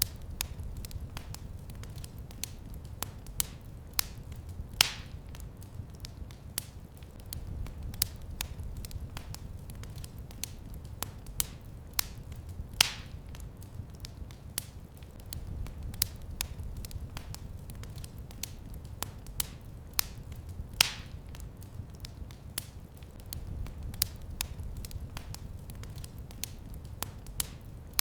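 Wood fire crackling in a fireplace: frequent small pops and a few louder snaps over a low steady rumble of the flames.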